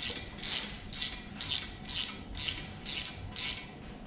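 Ratchet wrench being swung back and forth to back out an exhaust manifold bolt, its pawl rasping on each return stroke at about two strokes a second.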